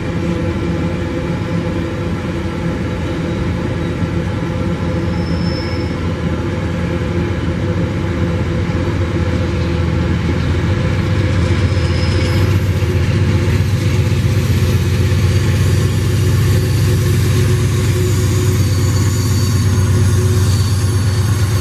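Empty iron-ore hopper wagons rolling past on the rails, with the diesel engine of a mid-train remote locomotive growing louder as it approaches; its low drone strengthens from about halfway through.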